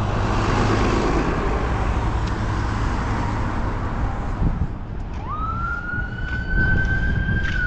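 Street traffic rumble and hiss, then about five seconds in an emergency vehicle siren starts, its wail rising quickly and holding high.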